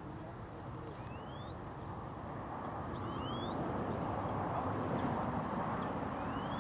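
A low rushing noise that swells louder about halfway through, with a small bird's short, upward-sweeping chirps every couple of seconds.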